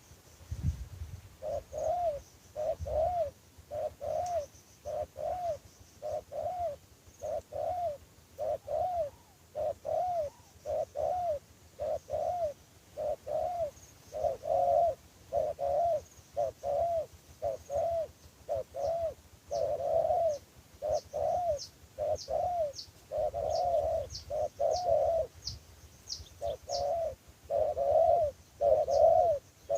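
Dove cooing over and over, a long run of short rounded coos at about two a second. Faint high chirps join in near the end.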